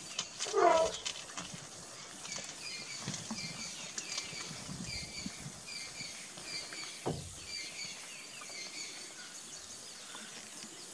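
A bird calling over and over, a short two-note call about twice a second, in open bush. About a second in there is a single loud short cry falling in pitch, and a dull thump a few seconds before the end.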